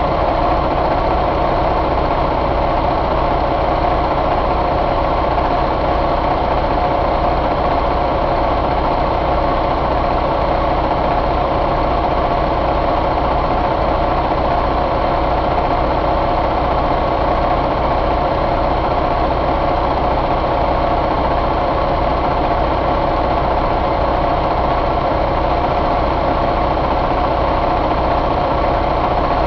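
2017 Detroit DD15 inline-six diesel engine idling steadily, with no revving.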